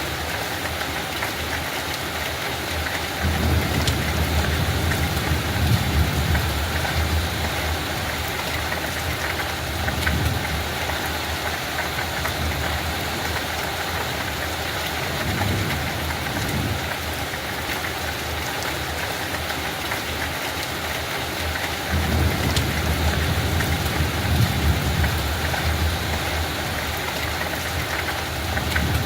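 Light rain falling steadily in a constant hiss. A low rumble swells up and fades several times, longest about three seconds in and again about twenty-two seconds in.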